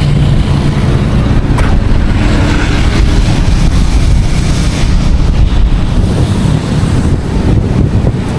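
Wind buffeting an action camera's microphone, a loud, steady low rumble.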